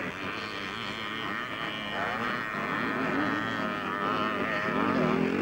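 Vintage twinshock 250cc motocross bikes racing, several engines revving with their pitch rising and falling. The engine sound grows louder from about two seconds in.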